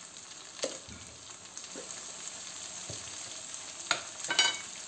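Onion and ginger-garlic paste frying in oil in a nonstick wok, a steady sizzle while a silicone spatula stirs. A few sharp knocks and scrapes against the pan, the loudest two close together near the end.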